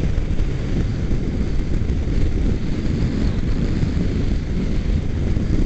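Steady rush of wind and engine noise from a motorcycle riding at freeway speed, with wind on the microphone.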